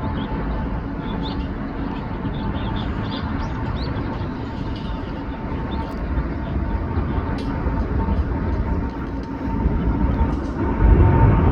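Jet airliner engines rumbling steadily with a thin, steady whine, growing louder near the end as the aircraft comes closer. Small birds chirp faintly over it.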